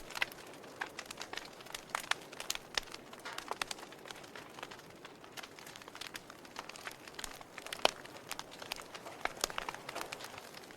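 Wood fire in a fireplace crackling: burning logs giving off irregular small pops and snaps over a faint hiss, with one louder pop about eight seconds in.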